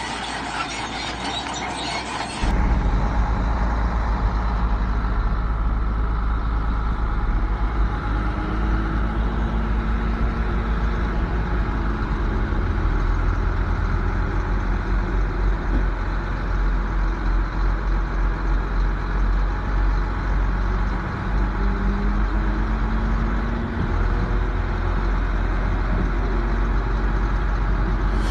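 Bulldozer's heavy diesel engine working under load, its pitch rising and falling as it pushes, loud and steady from about two and a half seconds in after an abrupt change from a thinner sound.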